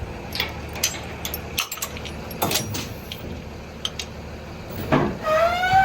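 Metal clanks and knocks from a box truck's rear lift gate and door hardware, then a short rising whine near the end.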